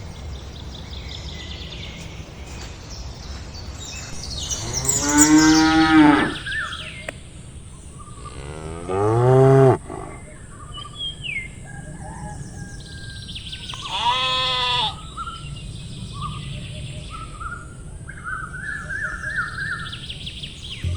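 Cattle mooing three times: long calls about five, nine and fourteen seconds in, the first two the loudest.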